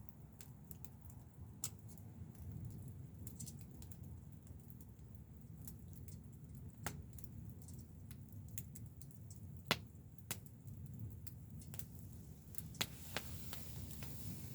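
Wood campfire crackling, with irregular sharp pops over a steady low rush; the loudest pop comes near the middle.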